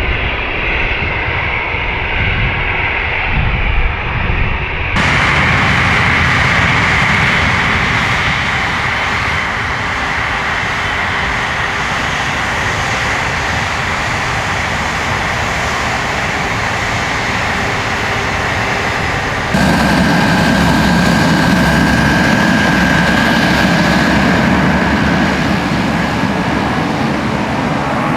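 Jet airliner engines running, cut together from several shots. A Boeing 737 MAX is heard briefly, then an Airbus A330 from about five seconds in. About two-thirds of the way through, the sound switches abruptly to a louder, deeper take with a steady high whine.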